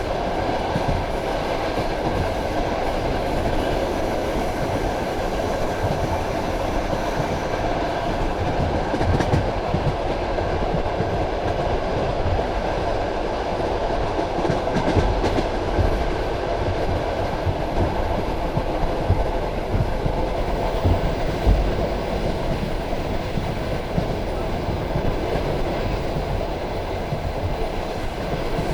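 Passenger train carriage running along the track, heard from inside at the window: a steady rumble of wheels on rail with scattered low knocks from the wheels and rail joints.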